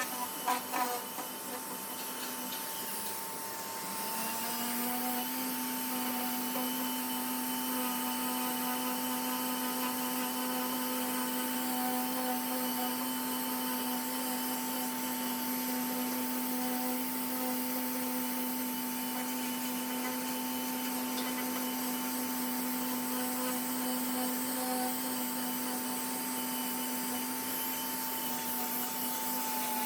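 An electric power tool's motor spins up about four seconds in and then runs at a steady pitch with a hiss, with a few knocks just before it starts.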